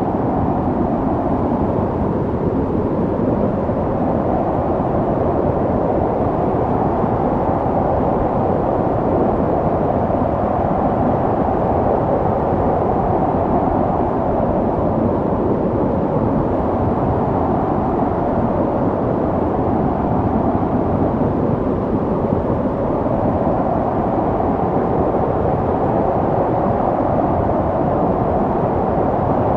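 Snowstorm wind blowing steadily, a low rushing noise that slowly swells and eases.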